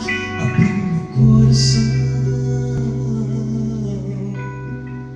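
Band music from a gospel song's introduction: sustained instrumental chords with guitar, and a deep bass note that comes in about a second in and is held, slowly fading.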